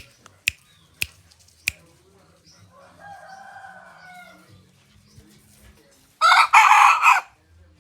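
A decoy jungle fowl rooster crowing: one loud, short crow of about a second near the end. Before it come a few sharp clicks and a fainter, longer call.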